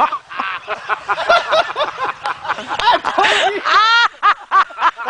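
Several people laughing and shrieking, with a high drawn-out cry about four seconds in.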